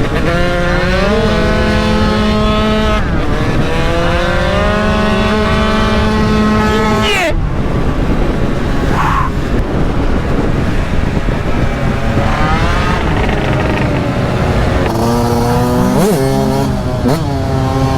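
Yamaha YZ125 single-cylinder two-stroke motocross engine revving hard under acceleration, its pitch climbing and dropping sharply at each upshift, twice, then rising and falling with the throttle.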